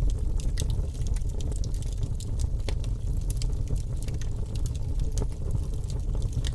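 Wood fire in a fireplace crackling: frequent small irregular pops and snaps over a steady low rumble of the burning fire.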